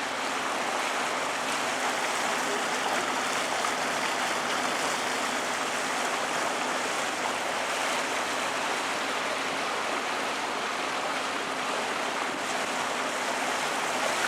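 Steady rushing, splashing water noise of a canal tour boat moving through the water, constant throughout.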